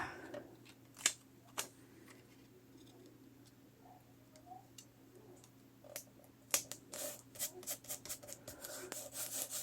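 Quiet paper handling: two sharp clicks about a second in, then a quick run of small clicks and crackles over the last three or so seconds as paper or cardstock is picked at and peeled.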